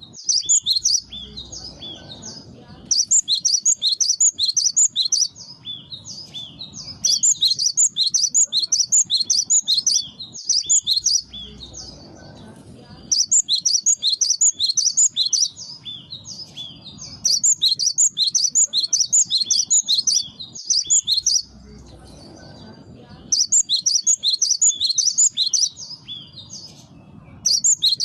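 Cinereous tit (gelatik batu) singing in bursts of rapid, repeated high notes, each burst about two seconds long, with short pauses between.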